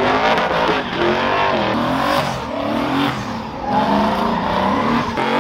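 Vehicle engines revving, their pitch climbing and falling again several times over.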